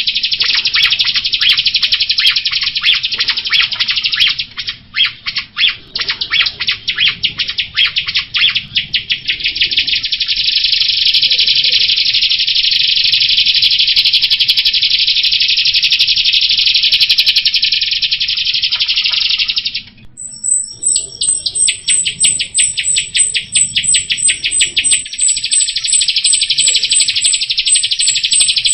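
Jalak rio (rio-rio starling) singing a continuous, fast buzzing chatter. About 20 seconds in it breaks off briefly, then resumes with a string of high repeated notes, about three a second, over the chatter.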